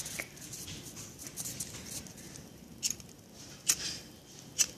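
Small paper fire crackling, with faint scattered crackle and three sharp snaps in the second half.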